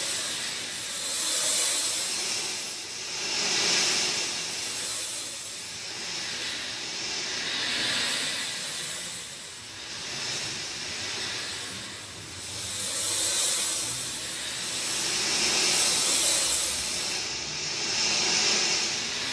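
Rain falling, a steady hiss of drops that swells and eases every two to three seconds.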